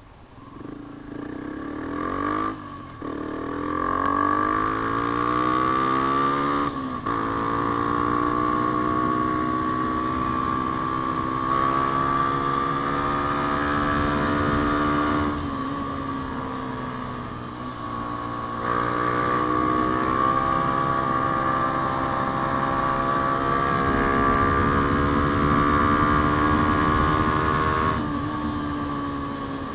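Yamaha Sniper 150's single-cylinder engine through an aftermarket JVT exhaust pipe, pulling away from near quiet and accelerating. Its pitch climbs, breaks and drops at each gear change, about four times, then climbs again.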